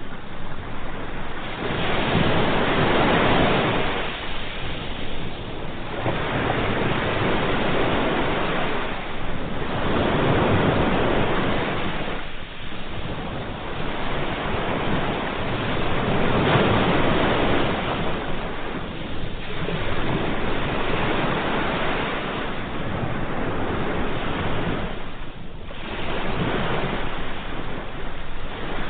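Sea waves: a continuous rushing surf that swells and ebbs as wave after wave comes in, a new surge every few seconds.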